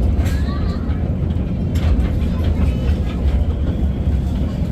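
Steady low rumble of a small park ride-on train running along its track.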